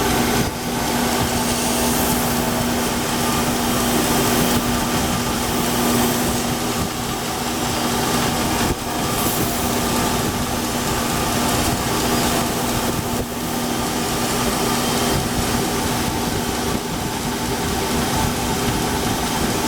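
Belt grinder running steadily, its abrasive belt grinding the spine of an assembled slipjoint pocketknife to blend the back spring flush with the liners.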